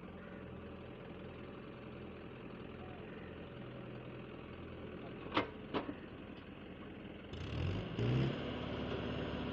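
Heavy diesel engine running steadily at idle, with two sharp knocks a little past halfway; near the end it revs up, louder and rising in pitch.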